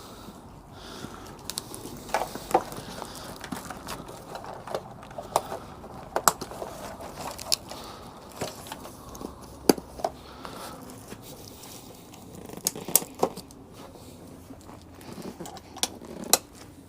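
Handling of an Enduristan Sandstorm 4S fabric tank bag as its Velcro extension strips are pressed closed: scattered crackles, rustles and sharp clicks at irregular intervals, some a second or more apart.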